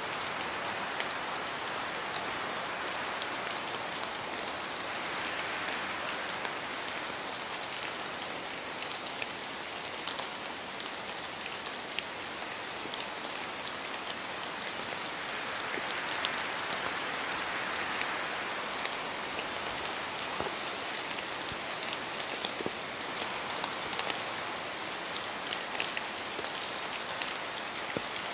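Steady rain with many distinct drops pattering on leaves and surfaces, the rush swelling gently a few times as wind gusts pass.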